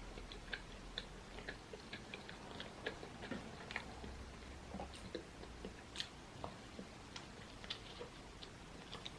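Close-miked chewing and mouth sounds of someone eating, a string of small irregular clicks, a few a second.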